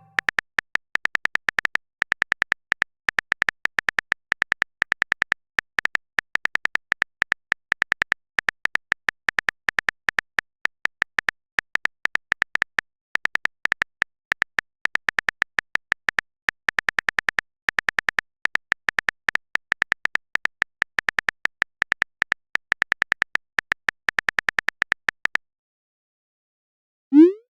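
Typing sound effect of a phone keyboard: a fast, uneven run of small clicks, several a second, that stops about 25 seconds in. A short rising blip follows near the end.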